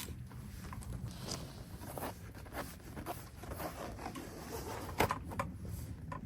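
Irregular light clicks, scrapes and rustles over a low steady rumble, with a sharper click about five seconds in.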